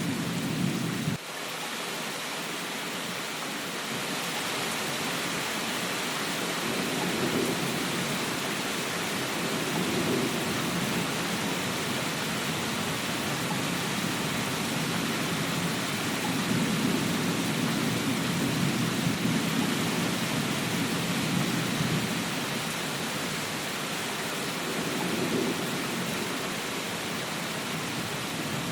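Steady rain with low rolling thunder that swells and fades several times. About a second in, the rumble cuts off abruptly, then builds again.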